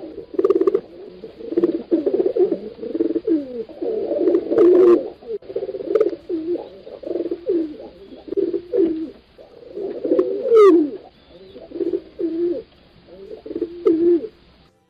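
Pigeons cooing over and over, their low calls overlapping as if several birds call at once.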